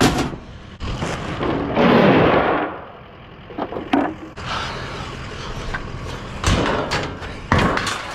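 Scrap metal being handled and loaded: several sharp knocks and thumps, with a longer scrape about two seconds in.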